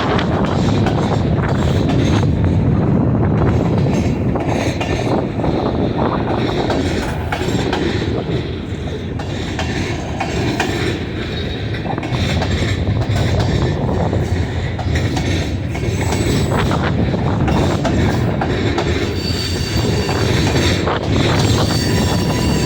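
Train rolling steadily past, its wheels clicking over the rail joints. A faint high wheel squeal comes in near the end.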